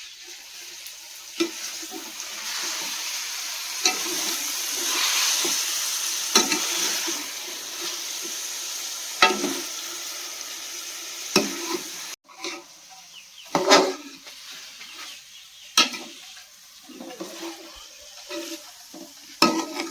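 Chicken feet sizzling as they fry in a pan while being stirred, with a sharp knock of the spoon against the pan every two to three seconds. The sizzle swells over the first several seconds and is fainter after an abrupt break about twelve seconds in.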